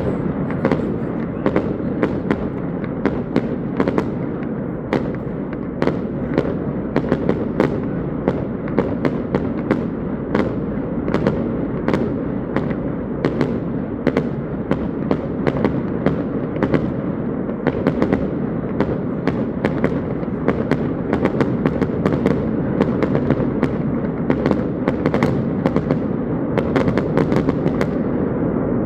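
Fireworks going off continuously, a rapid, irregular run of sharp pops and bangs over a steady background din.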